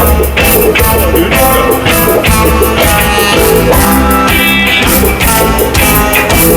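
Ska band playing live: a loud, full-band instrumental passage.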